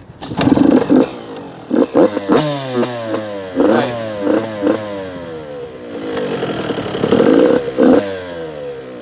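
Two-stroke 85cc dirt bike engine kicked into life and revved in short uneven blips, its pitch falling back between them, before settling into a steadier run near the end. The rider is giving it too little throttle to keep it going cleanly.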